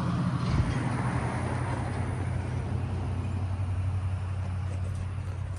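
Vintage Luxaire central air conditioner condensing unit running: a steady low hum under an even rush of air from the condenser fan.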